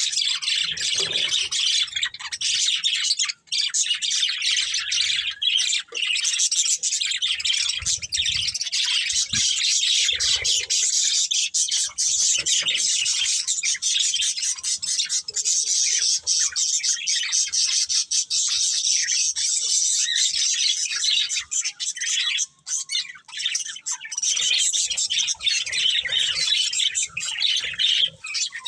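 Budgerigars chirping and chattering almost without a break, a dense high twitter of many quick short notes.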